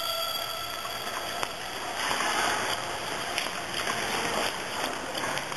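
Steady rushing of wind over a handheld camera's microphone, with a few faint, irregular footfalls.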